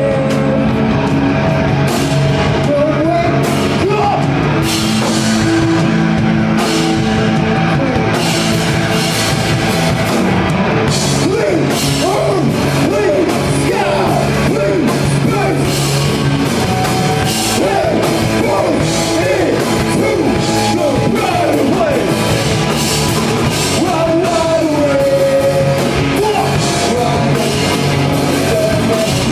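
A rock band playing loud and live, with drums, electric guitar and a singing voice.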